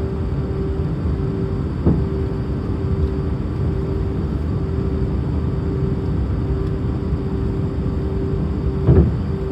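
Airbus A319 cabin noise: a steady rumble of engines and airflow with a faint pulsing hum. Two short thumps cut through it, about two seconds in and again near the end.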